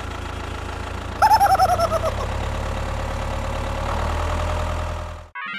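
Steady low hum of a small motor running, with a quick falling series of about eight squeaky chirps a little over a second in. It cuts off abruptly near the end.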